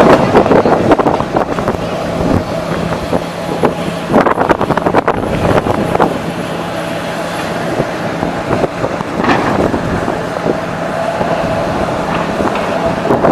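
A motor vehicle's engine running steadily, with repeated knocks and rattles and louder clusters of clatter about four seconds in and again about nine seconds in.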